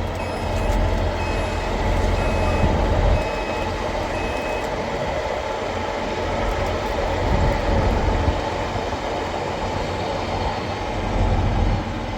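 Tractor engine running steadily during bale wrapping. An electronic warning beep repeats about every two-thirds of a second for the first five seconds or so, then stops.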